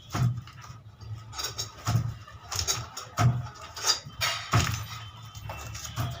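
Irregular knocks and clatter from hands and tools working on an air-cooler motor, one or two sharp knocks a second over a low hum.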